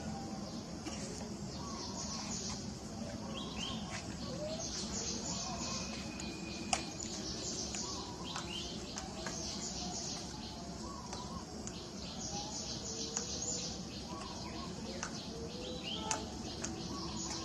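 Small birds chirping in short bursts over a steady background hum, with a single sharp click about seven seconds in.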